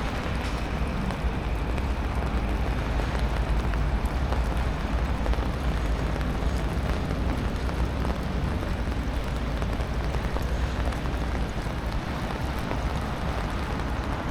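Steady rain falling on a city street, with a low traffic rumble underneath.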